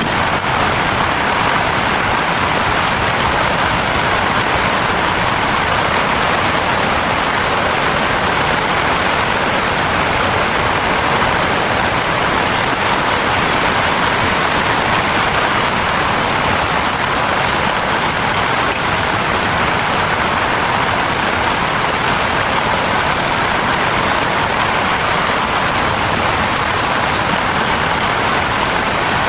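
Heavy rain falling steadily, an even, unbroken hiss that neither builds nor eases.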